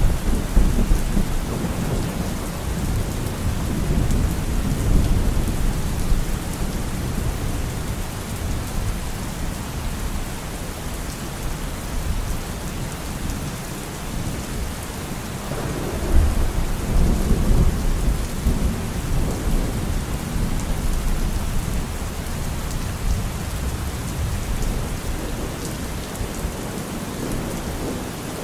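Steady rain with rolling thunder: a rumble fading over the first few seconds, and another rising about 16 seconds in and dying away slowly.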